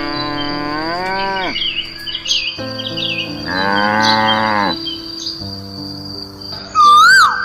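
A cow mooing twice, two long calls that each fall in pitch at the end, over a steady high insect-like tone. A loud whistling call rises and falls near the end.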